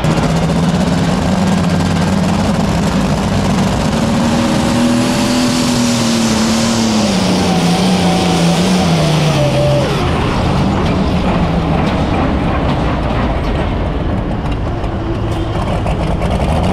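Super stock pulling tractor's turbocharged diesel engine running hard and loud; its pitch climbs slightly, then drops about halfway through and holds lower.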